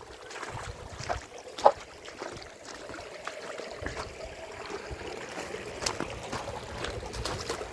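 Footsteps and scattered sharp clicks from someone walking outdoors, with one louder knock about two seconds in, over low wind rumble on the microphone and faint running water from a stream and small waterfall.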